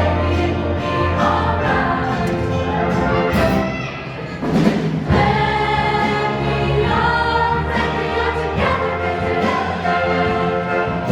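Show choir singing together with its accompanying band, with a short drop in the music about four seconds in and a sharp accent just after it.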